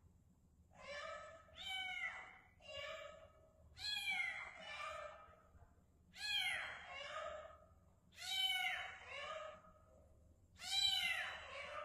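Kitten meowing repeatedly: about seven high, arching meows, one every one to two seconds.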